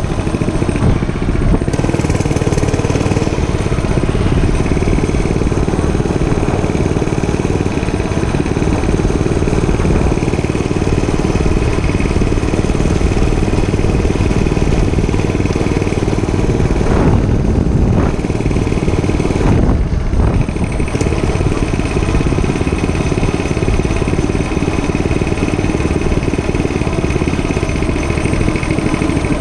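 Dirt bike running while being ridden: a steady, loud motor sound, with a short change in its note about two-thirds of the way through.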